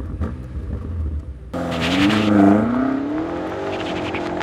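BMW M8 Competition's twin-turbo V8 running low, then revving hard about one and a half seconds in, its pitch climbing and wavering as the car accelerates away.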